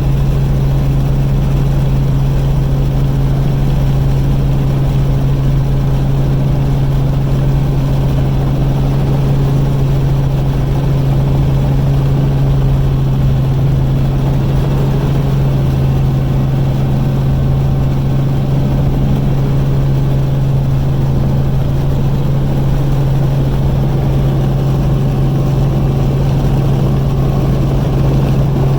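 Helicopter running with an even, unchanging drone: a strong low steady tone over a low rumble.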